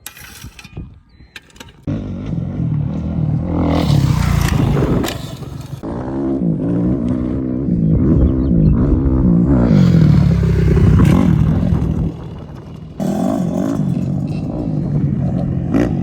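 Dirt bike engine revving, its pitch rising and falling over and over as the rider works the throttle. It starts suddenly about two seconds in and drops away briefly near the end before coming back.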